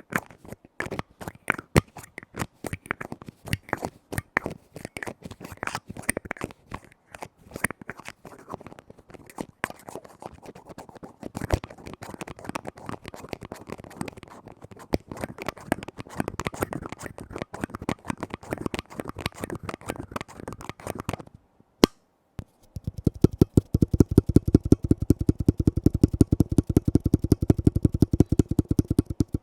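Tapping on lids: quick, irregular taps for most of the stretch, then after a short pause a very fast, even run of deeper taps.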